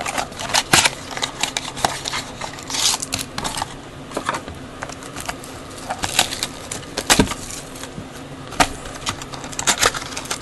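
Cardboard trading-card box and its packs being opened and handled by hand: irregular clicks, taps and short rustles of cardboard.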